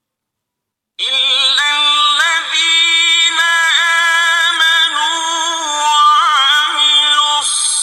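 Quran recitation in the melodic mujawwad style: a man's voice chanting long, drawn-out, ornamented notes that waver and glide in pitch. It starts about a second in, after silence.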